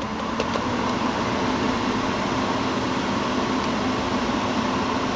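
1990 Cadillac Brougham's climate-control blower fan coming up to speed, then blowing a steady rush of air through the dash vents with a low hum under it.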